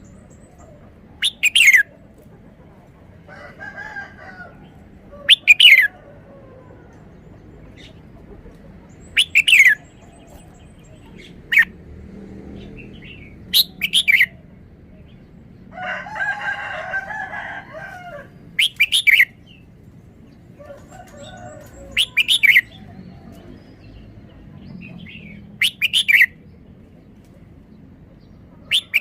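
Red-whiskered bulbul singing short, sweet phrases, one loud phrase about every four seconds, with softer, lower calls from other birds in between.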